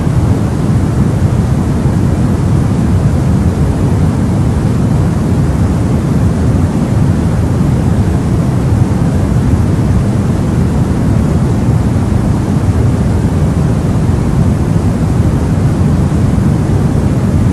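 Continuous white-noise sleep sound for babies: an even, unbroken rushing hiss, heaviest in the low range, with no changes or breaks.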